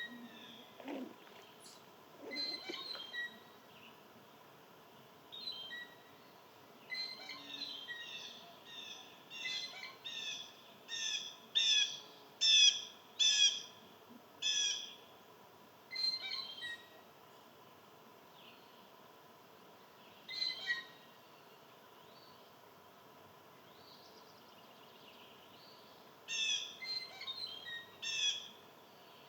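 A bird calling in groups of short, sharp notes, about two notes a second. The longest and loudest run comes in the middle, and a shorter group follows near the end.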